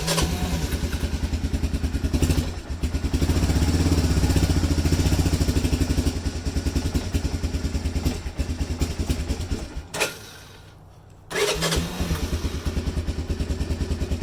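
A 1986 Honda FourTrax 350 ATV's single-cylinder four-stroke engine cold-starting. It catches suddenly and runs with a steady pulse, then louder for a few seconds under throttle. It dies about ten seconds in and restarts a second later, settling back to a fast idle.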